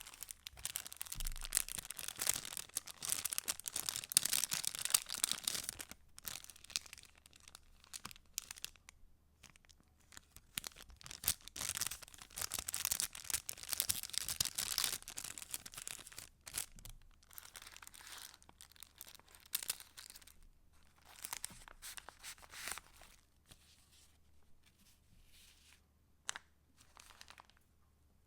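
Paper of a handmade junk journal being handled close to the microphone: dense rustling and crinkling in two long stretches, then sparser light taps and rustles that grow quieter near the end.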